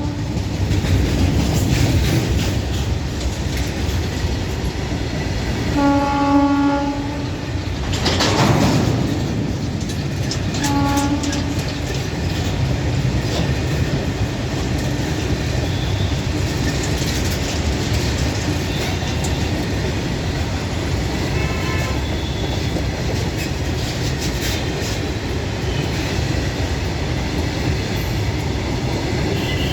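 Express train running through at speed: a steady rumble with rapid wheel clatter over the rail joints. The locomotive horn blasts for about a second six seconds in, and briefly again about eleven seconds in.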